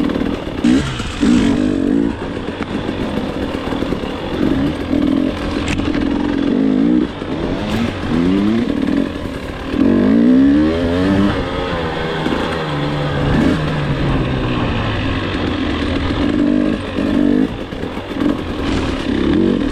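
Dirt bike engine under riding load, revving up and down over and over as the throttle is rolled on and off, with several sharp climbs in pitch.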